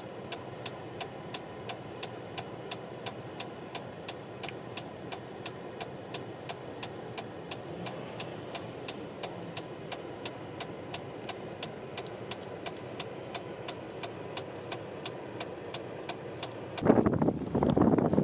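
Car engine idling, heard from the cabin, with a car's indicator relay ticking evenly about three times a second. Near the end, gusting blizzard wind suddenly buffets the microphone.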